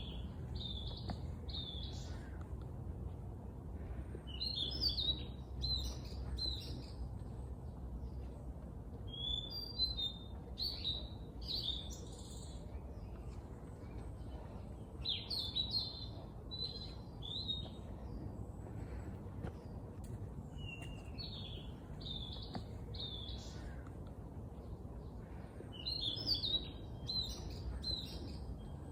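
A songbird singing short, quick phrases of chirping notes, repeated six times with pauses of a few seconds between them, over a low steady rumble.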